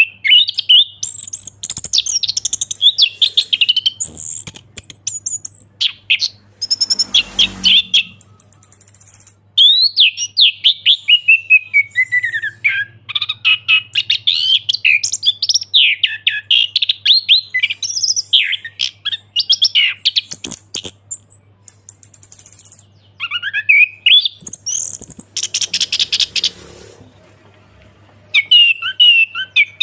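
Orange-headed thrush singing a loud, continuous, varied song of rapid chirps and whistled phrases in full 'ngeplong' voice, with a couple of short pauses. Two brief rustling noises come through, about seven seconds in and again near the end.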